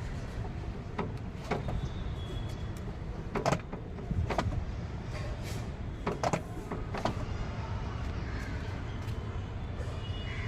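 Renault car door being swung open and shut, its door limiter (check strap) giving a series of sharp knocks and clicks. The speaker calls these knocking noises, the sound of worn limiter rollers.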